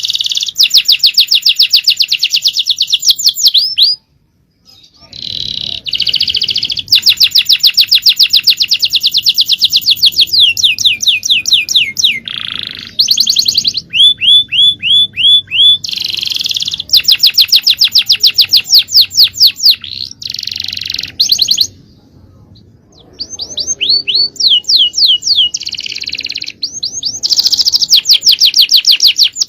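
Male domestic canary singing fast, loud trills of rapidly repeated sweeping notes, phrase after phrase, with short breaks about four seconds in and again past the twenty-second mark.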